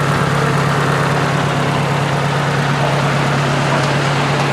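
Ford 600 tractor's four-cylinder engine idling steadily, a low even hum.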